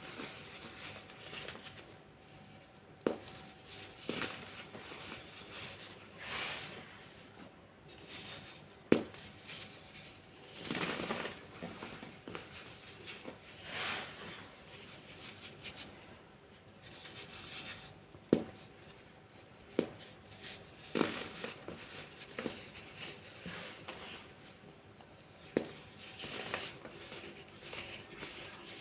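Dried, hardened baking soda being crushed and crumbled: soft powdery crunching that swells and fades every few seconds, with several sharp snaps as firmer pieces break.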